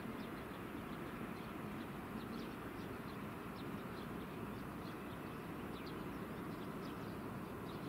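Small birds chirping: quick high chirps that fall in pitch, two or three a second, over a steady low background rumble.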